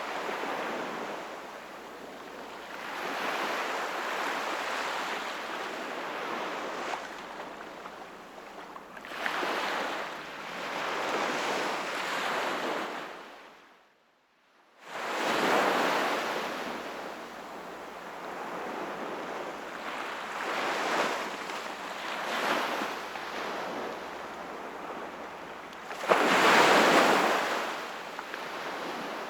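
Sea waves washing onto the shore, coming in surges every few seconds, with the loudest wave near the end. About halfway through the sound drops out briefly to near silence.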